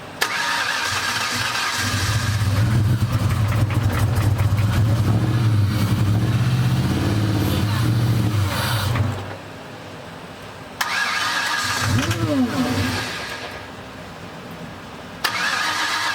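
Ford 4.6-litre four-valve V8 from a Lincoln Aviator being cranked on its starter during its first start attempts. It catches about two seconds in, runs for about seven seconds and dies. It is cranked again, fires briefly and dies, and cranking starts once more near the end: the engine is struggling to keep running.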